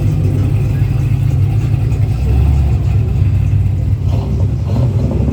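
A vehicle engine running with a loud, steady, low rumble.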